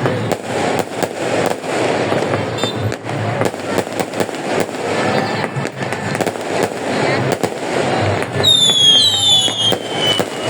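Fireworks banging and crackling over and over, with people talking and calling out underneath. From about eight seconds in, several high whistles, each falling in pitch, overlap one another.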